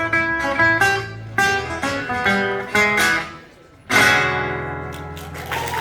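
A guitar ensemble plays the closing phrases of a rock-and-roll tune in quick picked notes. After a short break about three and a half seconds in, they strike one final chord together, which rings out and fades.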